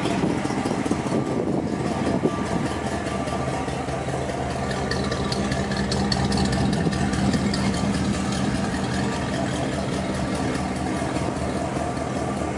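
1955 Ford Thunderbird's 292 cubic-inch Y-block V8 idling steadily, heard close to the car's rear exhaust.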